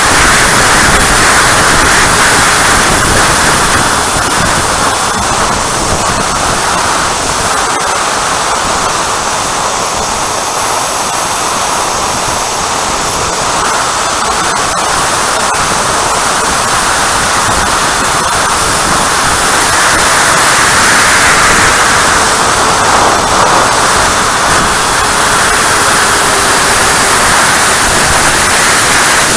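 Strong wind buffeting the microphone, with the high whine of an electric ducted fan RC jet (Freewing Avanti S, 80 mm fan) coming and going and wavering in pitch as it flies past.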